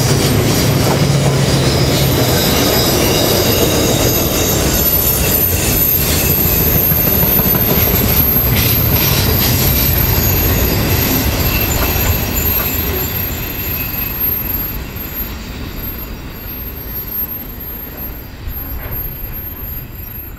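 Loaded freight wagons of a steel train rolling past on curved track, wheels knocking over rail joints, with a high-pitched wheel squeal. From about twelve seconds in, the sound fades steadily as the end of the train draws away.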